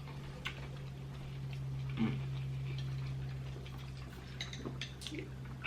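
Quiet eating at the table: faint scattered clicks and mouth sounds as fried seafood is dipped and chewed, over a steady low electrical hum.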